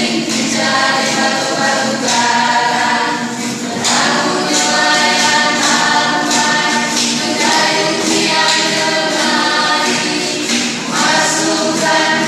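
A group of voices singing together in harmony, with steady struck percussion keeping the beat: the sung music that accompanies a traditional Southeast Maluku dance.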